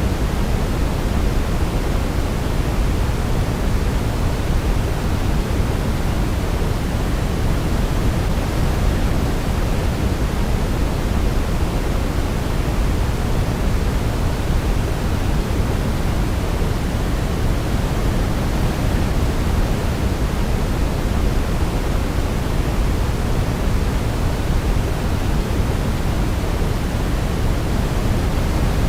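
Steady artificial white noise for baby sleep, the deep, low-weighted kind (pink noise), an even, unchanging hiss with no melody standing out.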